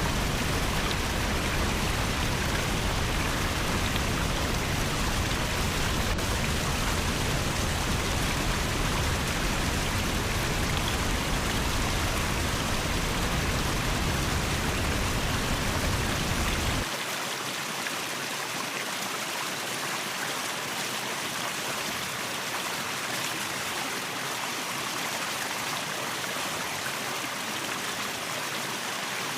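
Waterfall: a steady rush of falling and flowing water. About two-thirds of the way through, the deep low rumble cuts out abruptly, leaving a lighter, thinner rush of water.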